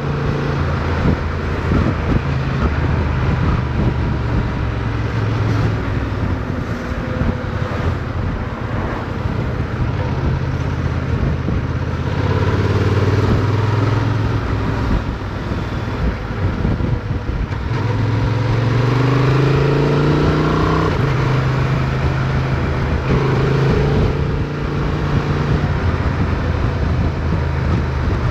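Motorcycle engine running while riding, with wind rushing past. The engine note changes pitch through the stretch and climbs as the bike accelerates about two-thirds of the way in.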